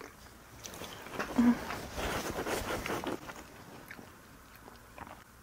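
Close-up chewing of a mouthful of creamy rose pasta (Korean spaghetti), with soft, wet mouth sounds that are busiest in the middle and fade near the end. A brief hum comes about a second and a half in.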